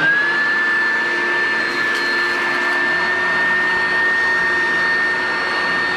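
Oreck XL Classic upright vacuum cleaner running at full speed. The motor comes up to speed in the first instant, then holds a steady rushing sound with one high, constant whine.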